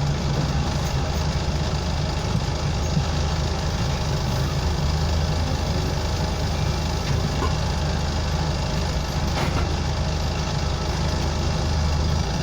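Scania OmniCity bus's diesel engine running steadily, heard from inside the bus as a constant low drone with road and cabin noise.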